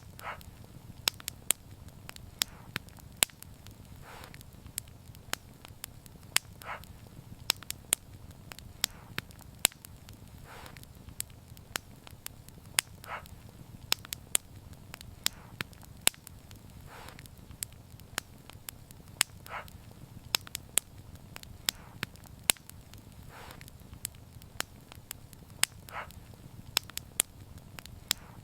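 Wood fire burning and crackling, with frequent sharp pops and a soft hiss every few seconds over a steady low rumble.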